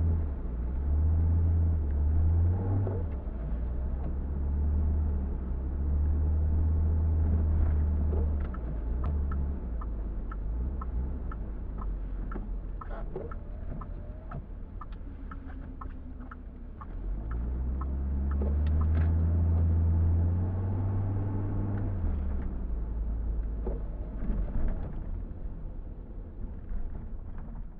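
Car engine running while driving, with the engine pitch rising as it pulls away near the start and again about two-thirds of the way in. A light, regular ticking runs through the middle.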